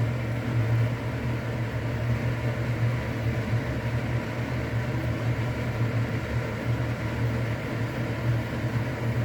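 Steady low hum with an even airy hiss from a running kitchen fan or appliance motor, with no change in pitch or level.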